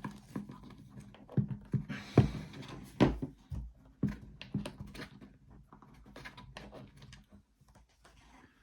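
Irregular clicks and knocks of a plastic heat gun being handled and taken apart, the loudest in the first three seconds and thinning out towards the end.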